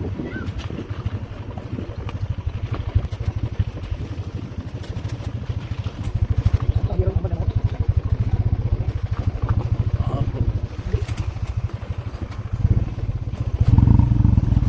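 A vehicle engine running on the move: a steady low rumble, with wind buffeting the microphone. It gets louder near the end.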